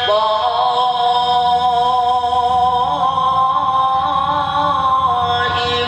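A male qari's voice in melodic Quran recitation (tilawah), holding one long ornamented note. The pitch wavers gently and steps up slightly about halfway through, and a new phrase begins near the end.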